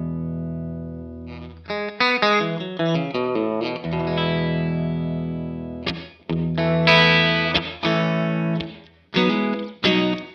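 Fender Stratocaster electric guitar played with light overdrive through a delay and reverb pedal into a Vox AC30 amp. A held chord dies away, then comes a quick run of single notes, another held chord, and several struck chords that are cut off short.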